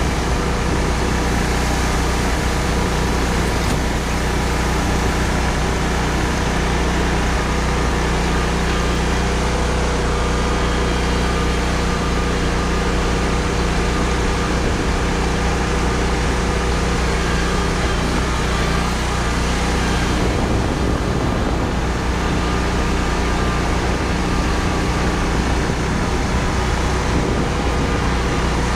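A vehicle's engine running steadily as it is driven, an even hum with no change in speed.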